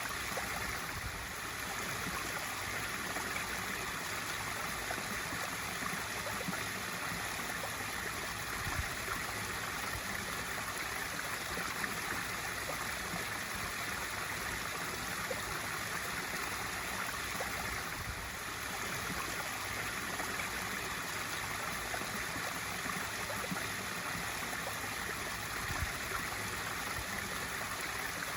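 Swimming pool waterfall feature: water pouring steadily into the pool with a continuous splashing rush.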